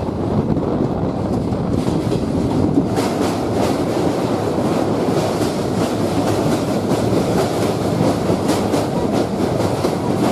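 Passenger train running, heard from on board: a steady rumble of wheels on the track, with a run of rapid clicks from about three seconds in as it crosses a small bridge.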